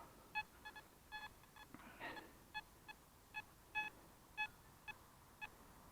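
Metal detector giving about ten short beeps at uneven spacing, all on the same tone, as it sweeps over a target in the ground: a signal that the detectorist takes for most likely a Soviet coin.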